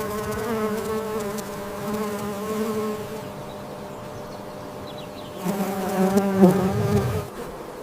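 Honeybee buzzing close by: a steady hum that weakens after about three seconds and swells again for a second and a half near the end.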